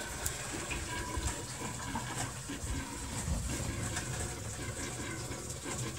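Water running steadily into a sailboat's freshwater tank that is already full, so it is overfilling.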